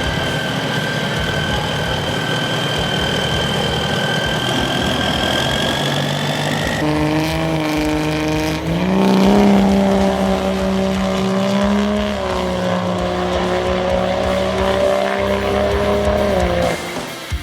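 Race truck engine held at high, steady revs. A high steady whine in the first seven seconds rises slightly and stops, then the engine note climbs a step and holds before cutting off near the end.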